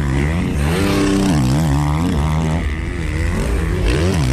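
450cc motocross motorcycle engines revving on the track, pitch rising and falling repeatedly as the throttle opens and closes.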